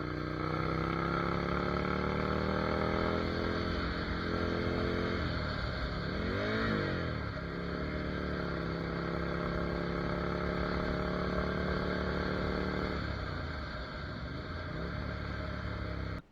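Ducati Monster 797's air-cooled L-twin engine running under way, its pitch climbing over the first few seconds as the bike accelerates and then holding steady. Around the middle the pitch dips and swells once. Near the end the engine eases off and the sound cuts off suddenly.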